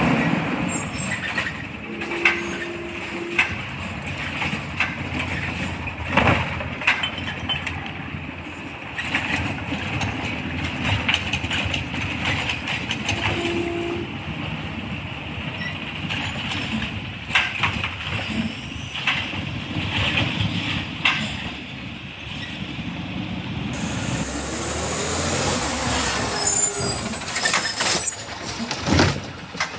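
Garbage truck at work: its diesel engine runs under repeated metallic clanks and knocks. A long air hiss starts about 24 seconds in, and a heavy bang comes near the end.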